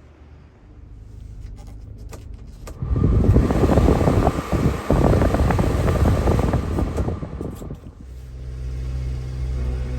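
1997 Subaru Sambar mini truck running: a low steady hum, then a much louder, rough noise from about three seconds in until about eight seconds, then the low hum again.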